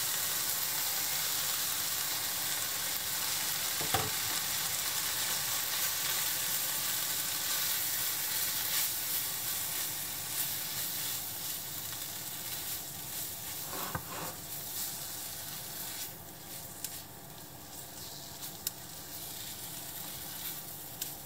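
Salmon pieces and spinach sizzling in oil in a nonstick frying pan while flour is stirred in, with a few light knocks. The sizzling slowly dies down.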